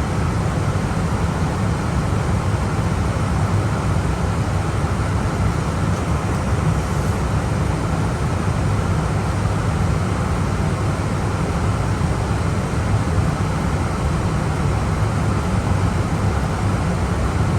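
Steady rush of airflow and engine noise inside an Airbus A320 cockpit in descent, deep and even with no change in level.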